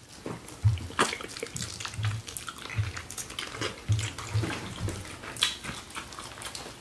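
Close-miked chewing and wet lip-smacking of smoked turkey leg meat: many small wet clicks over soft low thumps, about two a second.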